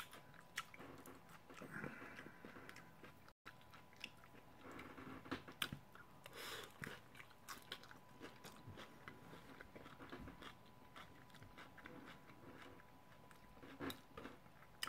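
Faint crunching and chewing of a crisp tostada shell topped with lettuce, with scattered small crisp cracks as it is bitten and chewed.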